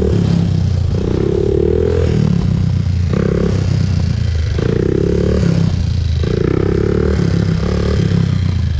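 2001 Honda TRX400EX quad's single-cylinder four-stroke engine running under riding load, revving up and easing off again and again in pulls of about a second each.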